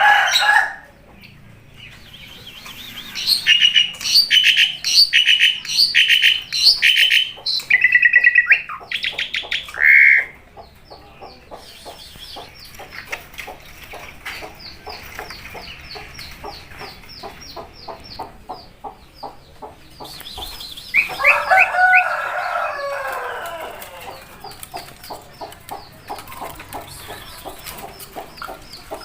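Asian pied starling calling: bursts of loud repeated whistled notes, then a long run of rapid, thin, chattering clicks. About two-thirds through comes a louder, falling call.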